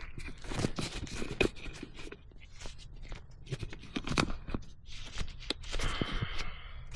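Hands working intake parts into place: irregular scrapes, clicks and knocks of plastic and rubber, with a short scraping rustle near the end.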